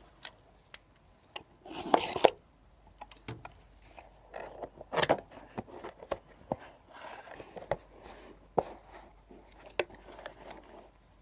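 A cardboard box being handled and opened: scattered clicks and taps with short scraping and tearing sounds, the loudest about two seconds in and again about five seconds in.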